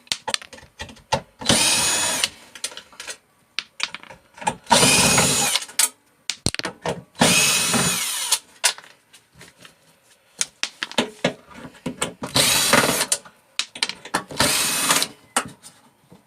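A power drill-driver backing screws out of a microwave's bottom plate, in five short runs of about a second each, each spinning up quickly and then holding steady. Small clicks and rattles come between the runs.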